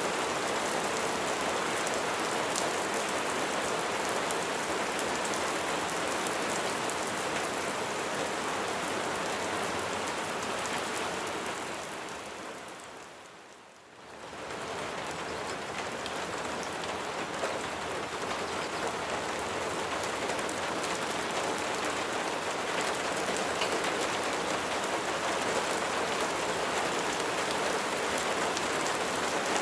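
Steady rain falling on a surface, with fine drops ticking. About halfway through it fades down for a second or two and then swells back up.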